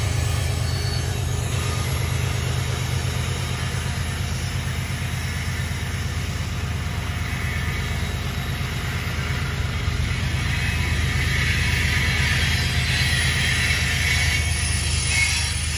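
BNSF GE ES44C4 diesel locomotives passing and drawing away, with a steady, deep engine rumble, as a long string of coal hopper cars rolls by. Wheel-on-rail noise grows louder in the second half.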